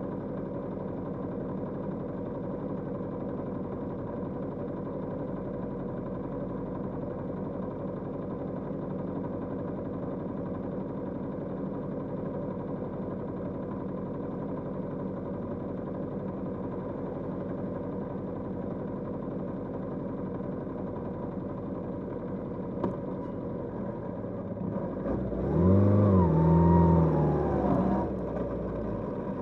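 Kawasaki GPZ550's air-cooled inline-four engine running steadily at a low, even speed, then about 25 seconds in it revs up louder, rising and falling in pitch, before settling back down.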